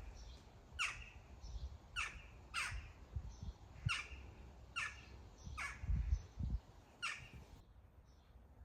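A bird calling over and over, about eight short downward-sweeping calls roughly a second apart, with fainter high chirps from other birds between them. A few low thumps come just past the middle.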